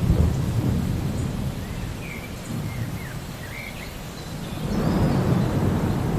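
Rolling thunder over steady rain. The low rumble fades through the middle and swells again near the end.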